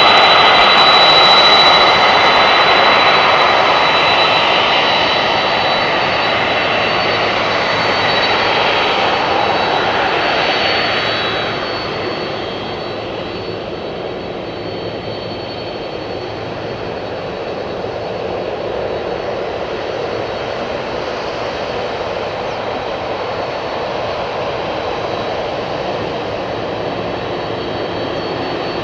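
Boeing 767 jet engines running loud with a steady high whine over the roar. The roar drops off about twelve seconds in and settles at a lower, steady level.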